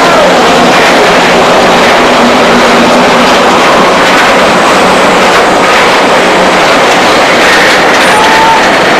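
Freight train passing on the rails: a loud, steady rush of wheel and rail noise from its rolling wagons.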